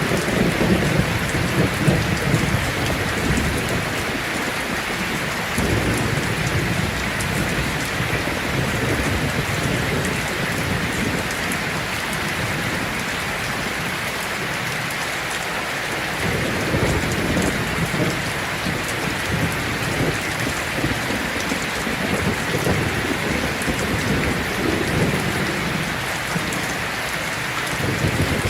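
Heavy rain drumming steadily on a tin roof, with low rolls of thunder rumbling underneath, strongest in the first few seconds and swelling again later on.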